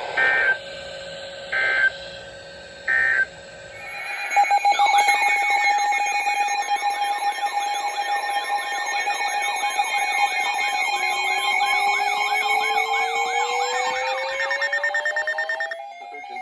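Weather-radio alert signalling. It opens with three short digital header bursts, then a loud mix of warbling, siren-like alarm tones over a steady tone, with one tone slowly rising, starting about four seconds in and cutting off near the end.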